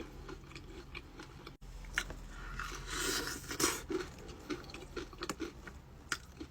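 Close-up chewing of a bite of chicken wing, with many small wet mouth clicks and a crunchier stretch about three seconds in.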